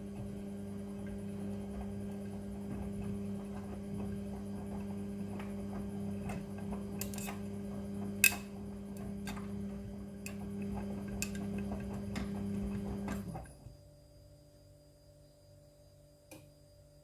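Front-loading washing machine running its drum: a steady motor hum with scattered clicks and knocks from the tumbling load. The hum cuts off suddenly about three-quarters of the way through as the drum stops.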